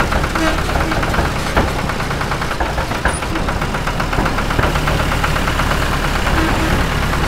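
Small engine of a home-built mini tractor running steadily with a fast, even knocking beat.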